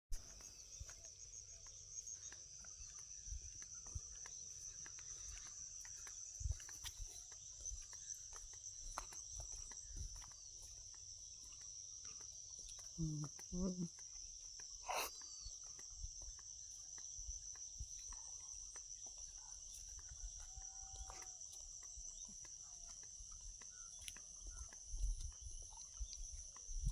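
Steady, high-pitched insect chorus of a cricket type. Two brief low calls come about halfway through, and a sharp click follows just after them.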